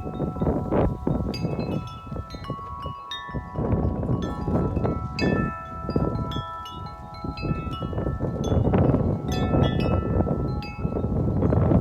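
A 36-inch Corinthian Bells wind chime rings continuously, its tubes struck again and again in the wind so that several notes overlap and sustain. Gusts of wind rumble on the microphone underneath, rising and falling.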